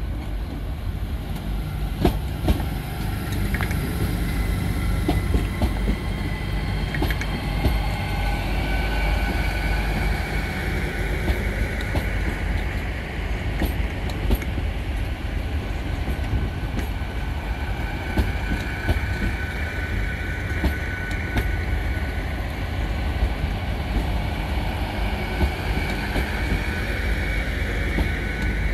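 A train moving through the station with a steady low rumble. Scattered clicks of wheels over rail joints, and a faint high-pitched squeal that comes in about eight seconds in and holds on and off.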